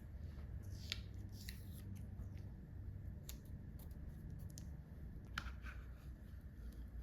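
Scissors snipping, likely through paper or sticker sheet: a handful of short, separate cuts spaced out over several seconds, over a low steady room hum.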